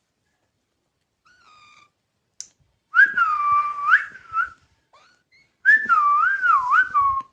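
Two loud whistled phrases, the first sliding down and back up, the second wavering up and down, with faint short Alexandrine parakeet calls just before them.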